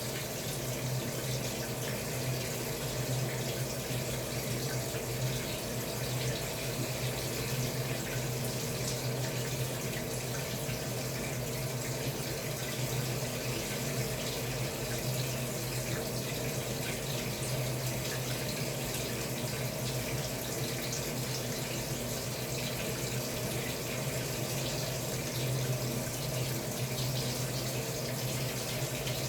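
Samsung Wobble 14 kg top-loading washing machine running with water, a steady rush of water in the drum over a constant low hum.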